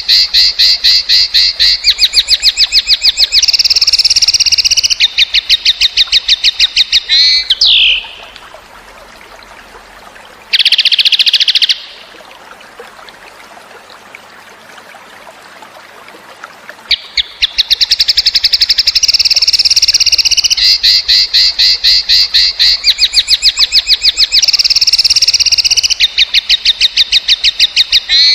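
Cucak cungkok song from a looped masteran recording: long runs of fast, buzzy, high trills, each ending in a quick falling note. A pause follows, broken by one short loud trill, and then the same trill sequence repeats. A faint trickle of water fills the pauses.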